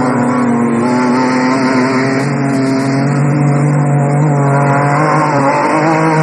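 Off-road race vehicle's engine running hard, its pitch climbing a few seconds in, dipping near the end and rising again.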